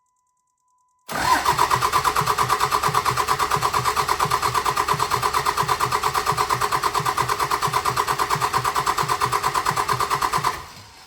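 A 5.9-litre common-rail Cummins inline-six diesel in a 2006 Dodge Ram 3500 being cranked over by the starter, a loud, fast, even pulsing that starts about a second in and cuts off near the end without the engine catching: a crank-no-start that the mechanic traces to a faulty number 2 injector.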